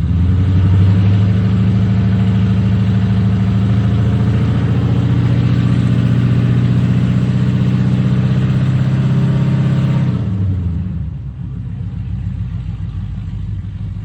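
Drag car's engine held at a steady raised speed, loud and even, then falling back to a lower idle about ten seconds in.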